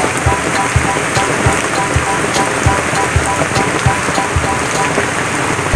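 Steady rain falling on a lawn and a concrete walkway, with individual drops tapping sharply close by.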